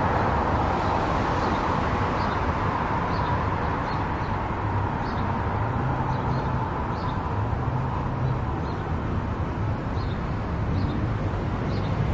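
Car driving at highway speed: steady tyre and road noise with a low engine hum. Faint light ticks recur irregularly throughout.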